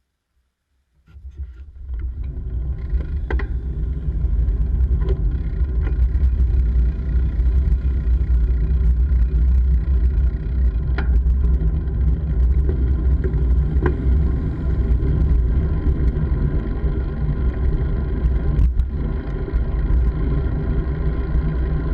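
Steady wind buffeting and rumble on the microphone of a moving bike, with a few sharp knocks scattered through. The sound comes in abruptly about a second in.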